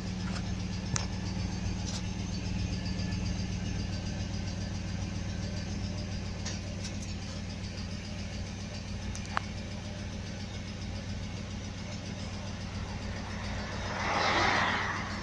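BMW engine idling steadily at the tailpipe, its exhaust smoking at idle. A brief rushing noise swells and fades about fourteen seconds in.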